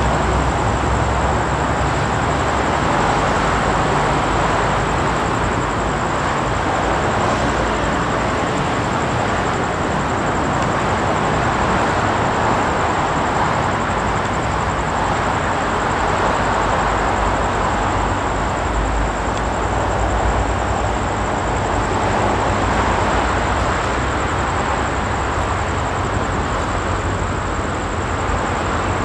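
Steady running noise of a moving train, with wheels rolling on the rails and a low rumble. The noise stays even, with no separate beats or chuffs.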